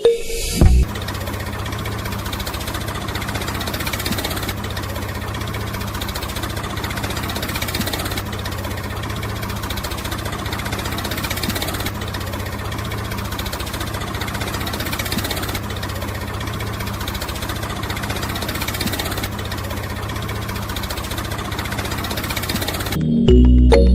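A small engine or motor running steadily at an even speed, with a low hum under a broad rattle and no changes in pace.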